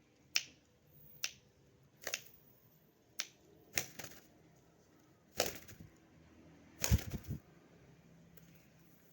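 Sharp finger snaps, about five in the first four seconds, then two louder, longer fluttering bursts a little past halfway.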